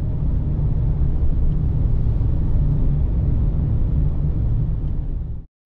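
Steady low rumble of a VW Transporter T6.1 camper van driving, with engine and road noise, cut off abruptly near the end.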